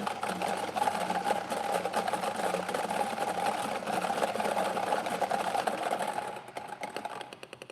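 Electric lottery ball-drawing machine running with a steady motor hum and numbered balls clattering rapidly inside it. About six seconds in it winds down: the rattle thins to separate, slowing ball clicks and dies away.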